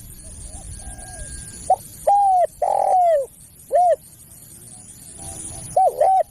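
Spotted dove (tekukur) cooing. Faint short notes come first, then a brief note and two longer, falling coos about two seconds in, a short coo near four seconds, and two quick notes near the end.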